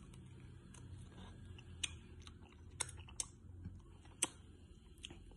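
Close-up eating sounds: a person chewing, with a few sharp clicks and crunches scattered through, the loudest about four seconds in, over a steady low hum.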